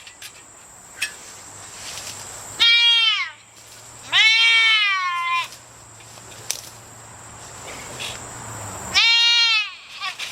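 A goat bleating loudly three times, the second call the longest, each call dropping in pitch as it ends.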